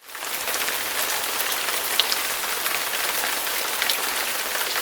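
Steady rain falling, an even hiss with scattered sharp drop ticks, fading in at the very start.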